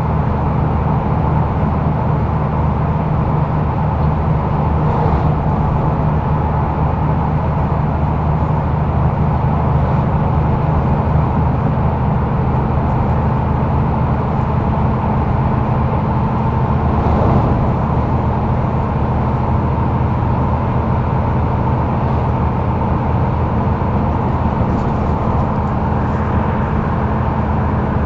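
Mercedes-Benz O530 Citaro facelift Ü bus driving, heard from inside the passenger cabin: the diesel engine runs steadily with road noise, and there is a single brief knock about seventeen seconds in.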